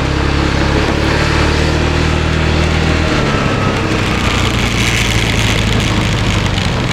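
Motor scooter engine running steadily, its note changing about three seconds in, under a steady hiss.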